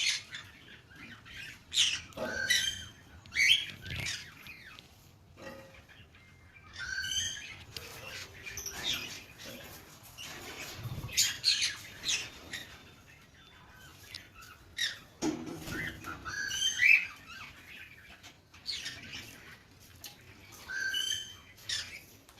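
Caged pet parrots squawking: a run of short, harsh, shrill calls, one every second or two.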